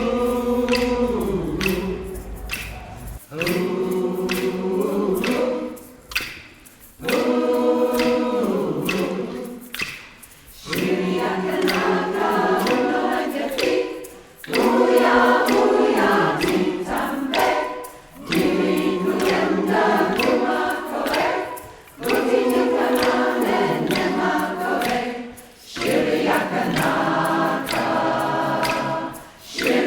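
Community choir singing in harmony, in phrases of a few seconds each with short pauses between them.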